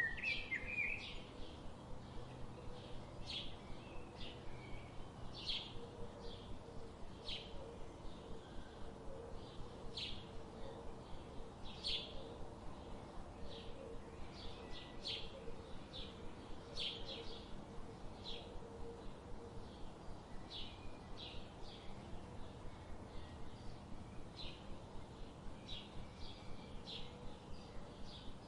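Birds chirping: short, high chirps repeating several times a second, with a brief rising call at the very start, over a faint steady hum.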